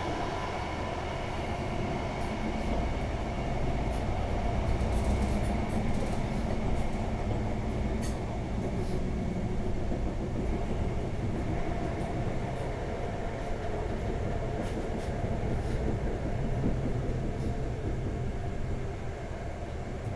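Pesa 218Mc diesel train running along the line, heard from inside the passenger car: a steady low rumble of engine and wheels, with a few sharp clicks scattered through.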